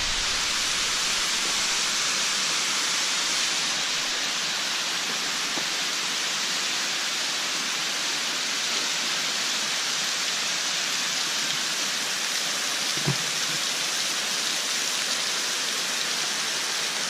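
Waterfall in spring snowmelt runoff, heard at close range: a steady, loud rush of falling water, with one short soft knock about thirteen seconds in.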